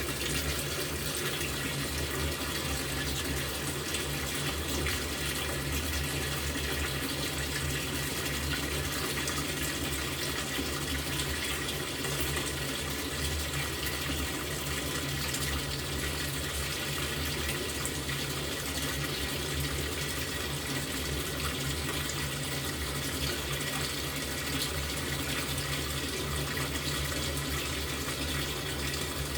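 LG top-loading washing machine filling with water: a steady rush of water pouring into the tub, with a low hum underneath.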